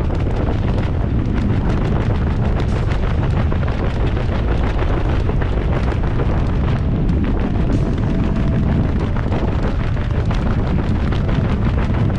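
Wind buffeting the camera microphone: a steady, loud rushing and rumbling.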